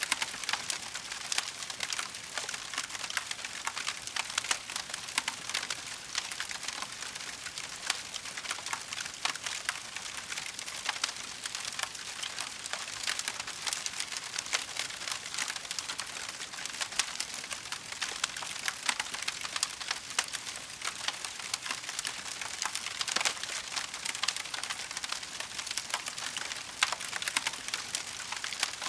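Burning wood fire crackling steadily: a dense run of small pops and snaps over a soft hiss, with a few louder snaps now and then.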